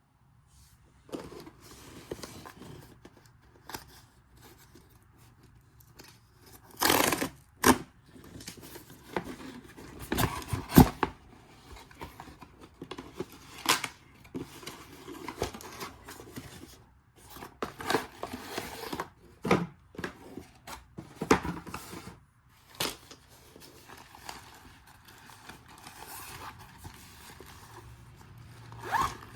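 Close, irregular handling noise: rustling and crinkling with scrapes and sharp clacks and knocks of things being picked up and set down.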